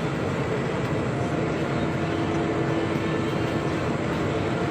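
Steady drone of a vehicle engine, with a constant hum that sets in about a second in.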